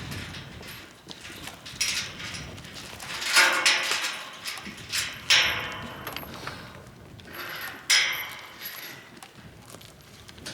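Sheep bleating, about five calls a few seconds apart, over hoof and shuffling noise.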